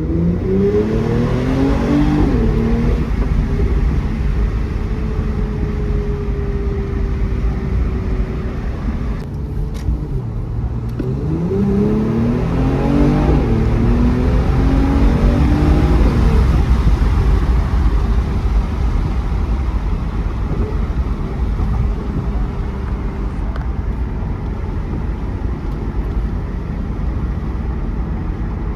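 2018 Mercedes-AMG E43's twin-turbo V6 accelerating twice, its pitch climbing and dropping back at each upshift, with a steady low road rumble under it while it cruises between pulls.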